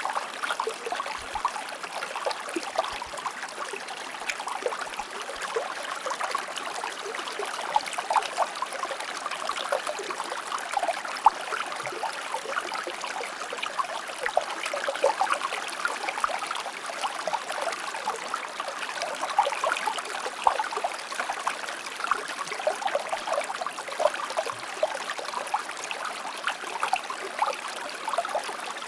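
Shallow stream of water flowing and burbling over rocks, a steady rush with constant small splashing and trickling.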